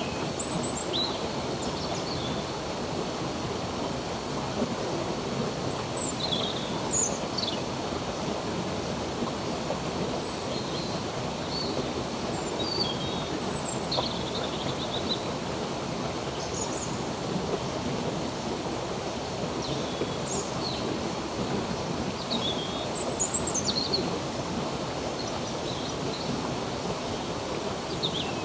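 Running water of a stream rushing steadily, with birds chirping over it in short, high calls every second or two.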